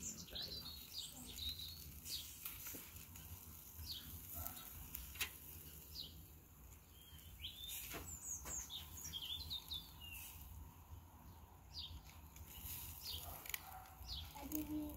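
Small birds chirping and trilling in short bursts, in clusters near the start, around the middle and near the end, with a few sharp clicks in between.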